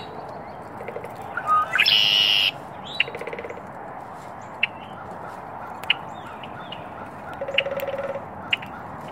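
Wild birds calling: short sharp chirps every second or so, a loud harsh rasping call about two seconds in, and a low rapid trill twice.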